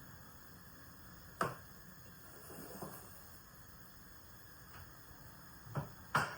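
A few sharp knocks and clicks of kitchen items being handled: one about a second and a half in, a couple of faint ones, then two close together near the end, the last the loudest, over a faint steady hiss.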